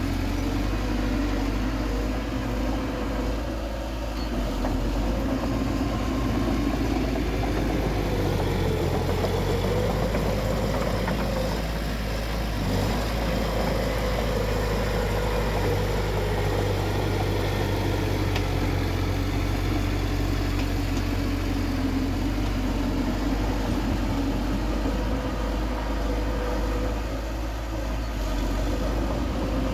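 Bulldozer's diesel engine running steadily, its pitch shifting slightly up and down as it works.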